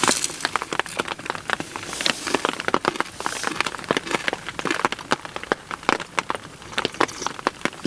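Heavy rain, drops striking a surface in a dense, irregular run of sharp taps.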